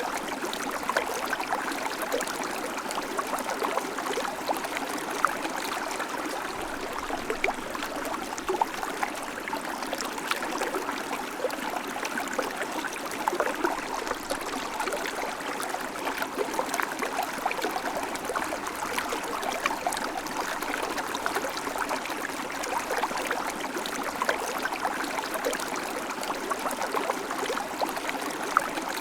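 River water flowing steadily over rocks, a constant rushing with small splashes and gurgles all through.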